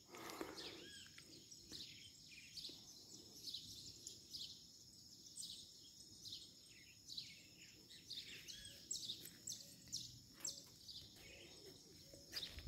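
Faint outdoor ambience with small birds chirping, short high calls coming every second or so.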